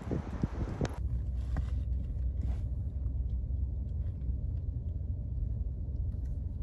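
Vehicle engine running with a steady low rumble, after a short stretch of noise and a sharp click that cut off suddenly about a second in.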